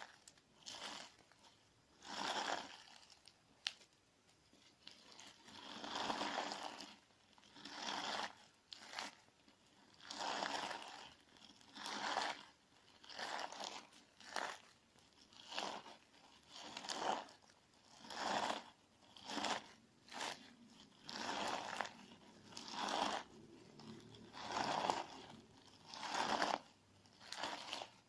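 Sticky clear slime mixed with crunchy sand being pressed and scooped with a wooden spoon. It crunches in a steady series of separate squishes, about one every second or so.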